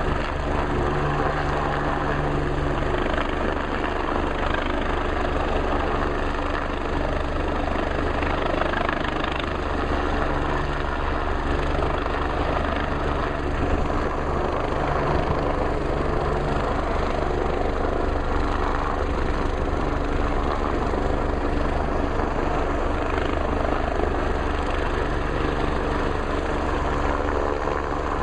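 MBB/Kawasaki BK 117 rescue helicopter hovering during a winch lift, its rotor and turbine noise running steadily with a deep low rumble.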